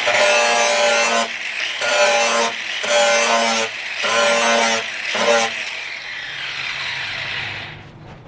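Angle grinder working a steel blade edge in five short passes, each a loud, ringing grind about a second long. After the last pass, a little over five seconds in, the grinder runs on without load and fades away near the end.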